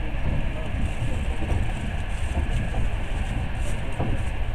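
Passenger train running steadily, its low, even running noise heard from inside the carriage.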